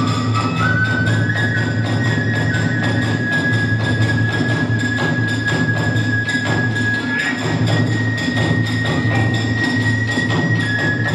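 Hiroshima kagura hayashi ensemble playing. A bamboo flute holds long high notes that step up in pitch, over a steady, rapid beat of drum and small hand cymbals.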